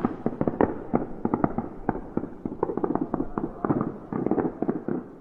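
Fireworks crackling and popping in a dense, irregular run of sharp cracks, many each second.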